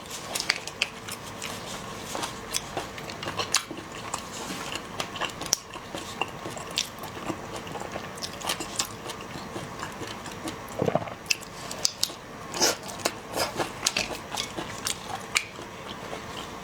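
Eating seafood: biting and chewing, with many irregular crunches and sharp cracks.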